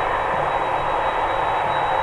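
Boeing 767-381 jet airliner's engines running with a steady noise and a faint, thin high whine held throughout.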